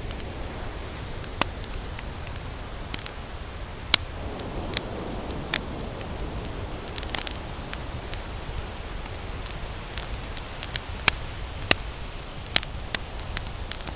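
Wood campfire crackling, with irregular sharp pops and snaps every second or so, over a steady low rumble of surf. A soft wash of surf swells up about four seconds in.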